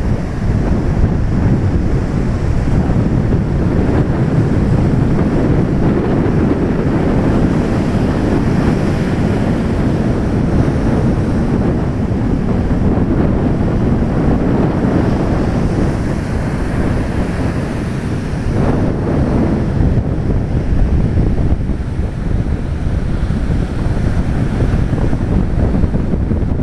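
Sea waves breaking and washing, with strong wind buffeting the microphone; a steady, loud rush of noise.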